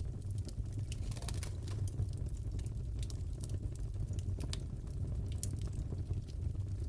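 Fireplace crackling: a steady low rumble with irregular small pops and snaps.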